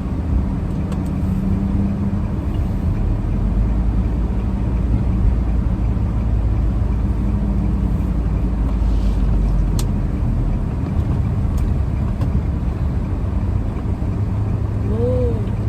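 Car engine and road noise heard from inside the cabin while driving slowly on snowy roads: a steady low rumble.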